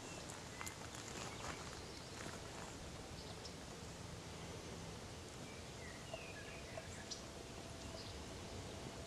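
Quiet open-air ambience: a faint steady hiss with scattered light clicks and ticks, and a short high chirp about six seconds in.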